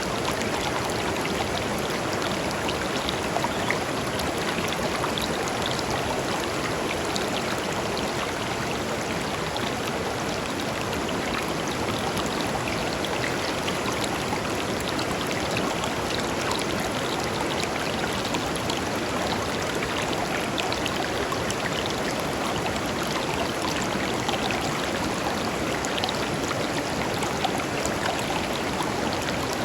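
Shallow river flowing steadily over stones, a continuous rushing and babbling with small splashes and trickles.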